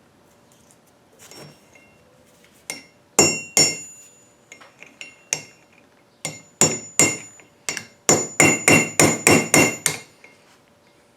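Hammer striking a small steel tool held against a broken ring-gear bolt, trying to break it loose, each blow a sharp ringing metal clink. A few scattered taps come first, then a quick run of about seven blows near the end.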